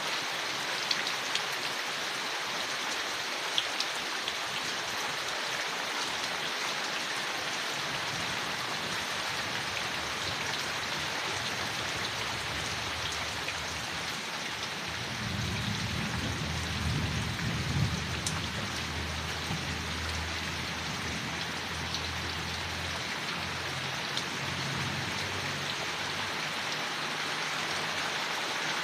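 Steady rain falling on leaves, with scattered louder drops ticking through it. About halfway through, a low rumble of thunder swells, peaks and fades away.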